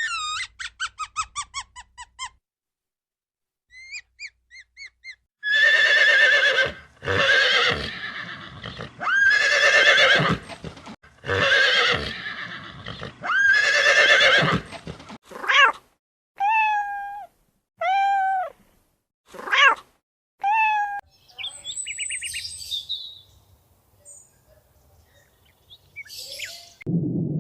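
A series of different animal calls in turn. First come rapid high descending chirps. Then about five loud, long calls that rise and fall in pitch, followed by five shorter arching calls. A low rumbling sound starts near the end.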